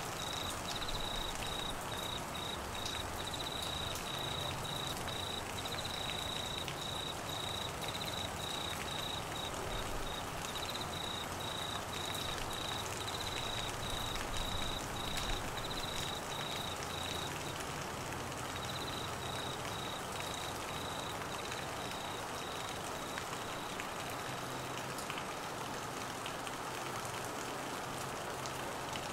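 Steady monsoon rain falling on trees, grass and floodwater, with a cricket chirping over it in quick, even, high-pitched pulses. The chirping breaks off briefly about two-thirds of the way through, starts again, then stops a few seconds before the end while the rain carries on.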